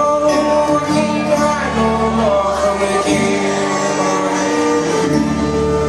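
Live country band playing, with guitar under a sustained melody line that slides from note to note, near the end of the song.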